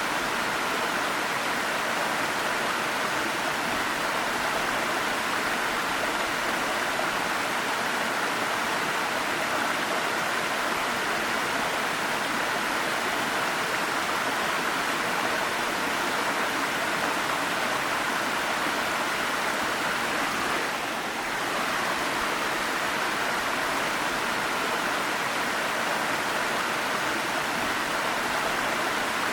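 Waterfall: a steady rush of falling water that dips briefly about two-thirds of the way through.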